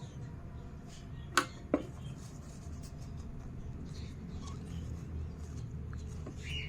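Two sharp clicks about a third of a second apart, over a low steady hum; faint short chirps from a green-cheeked conure, one near the end.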